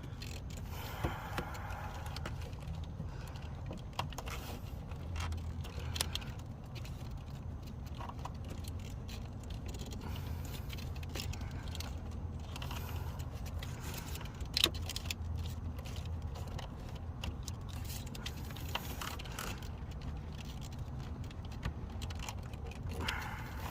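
Hands working a heater hose and its plastic quick-connect fitting deep in a Chevy Tahoe's engine bay: scattered small clicks, scrapes and rattles, with one sharper click about fifteen seconds in, over a steady low hum.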